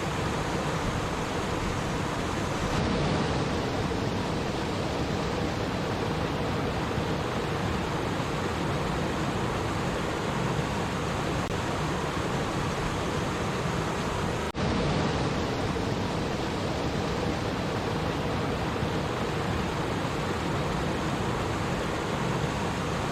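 Running water of a stream, a steady even rush, with a momentary dip about halfway through.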